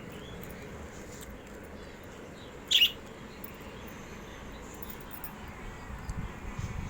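Lovebird giving one short, sharp call about three seconds in, over steady background noise; a few low bumps follow near the end.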